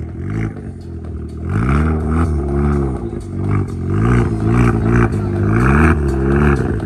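A car engine revved repeatedly in a string of quick throttle blips, its pitch climbing and falling about one and a half times a second. The revving picks up about a second and a half in.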